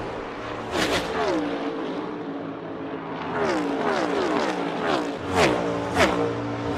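NASCAR Next Gen stock car V8 engines. The engine note falls in pitch several times, with a few sharp cracks, the loudest near the end.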